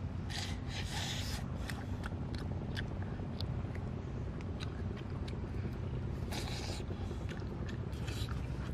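Eating sounds from grilled cowfish being bitten and chewed: short crunchy clicks and a few brief rasps, over a steady low rumble.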